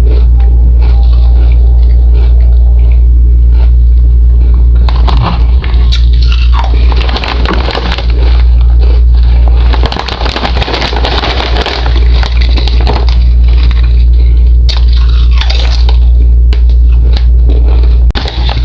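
Someone biting and chewing crisp chips, with crunching that is busiest in the middle, over a loud steady low hum.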